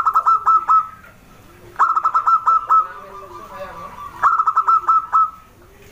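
Zebra dove (perkutut) singing: three phrases of quick staccato cooing notes, each a fast run of about six notes that trails into a held tone, about two seconds apart.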